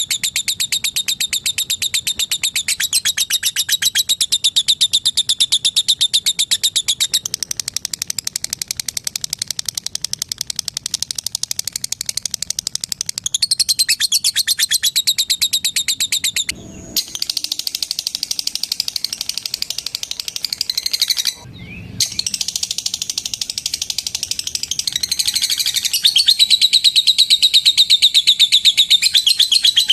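Lovebird, a hen (labet), giving a long, rapid run of high ticking chirps (the drawn-out 'ngetik'/'ngekek' chatter). It is broken twice by a short gap, about halfway through and again a few seconds later.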